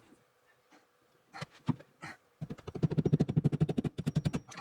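Rapid, even panting, about a dozen breaths a second, starting just past halfway and lasting about two seconds, after a few short knocks.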